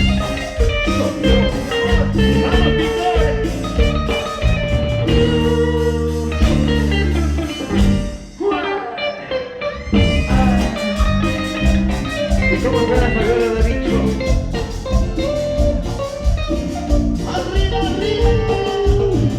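Live band playing Latin American dance music with a steady beat and guitar. About eight seconds in the music thins out for a moment, then the full band comes back in.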